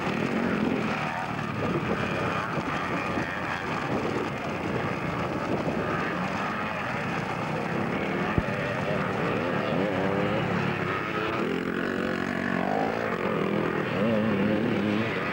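Several vintage 250cc motocross bikes racing, their engines revving up and down as they pass and overlap. There is a single sharp click about eight seconds in.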